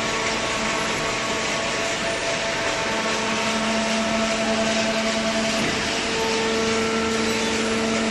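Two-ram hydraulic baler running: a steady, loud machine noise with a constant hum from its hydraulic pump and motor, the hum growing stronger about three seconds in and again near the end.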